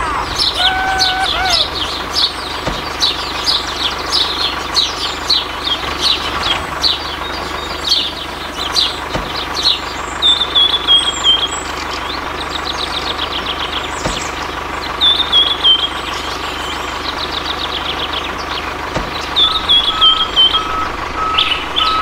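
Birds chirping and trilling in repeated bouts, with a steady faint hum beneath from the mini tractor's small electric motor.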